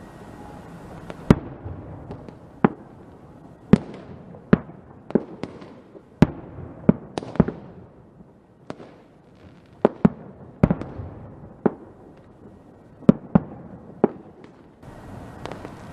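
Fireworks going off: a string of sharp, irregularly spaced bangs, roughly one or two a second, over a continuous crackling hiss.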